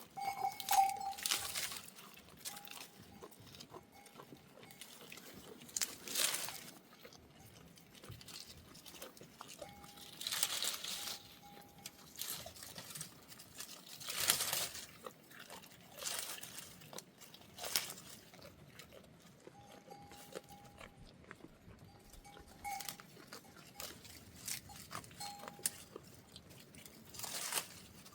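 Goats bleating now and then in short, steady calls, with bursts of rustling and crunching between them.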